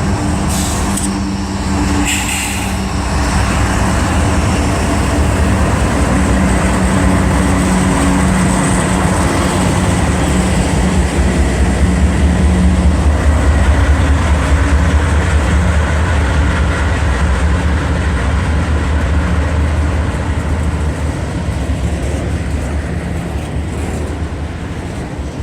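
Freight train passing, led by GE diesel-electric locomotives (an ET44AH and a CW44AC): a deep engine drone that swells to its loudest about halfway through and then eases off, over steady rumbling wheel and rail noise.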